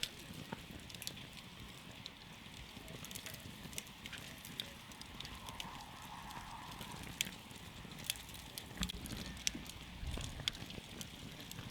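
Campfire burning: irregular sharp crackles and pops over a steady low rumble of the flames, with a few louder pops in the second half.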